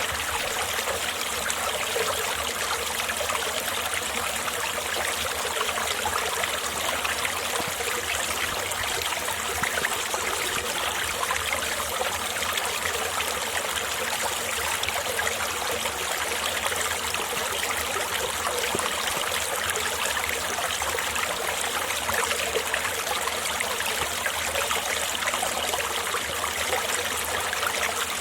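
Mountain valley stream flowing in winter, a steady, even rush and trickle of water.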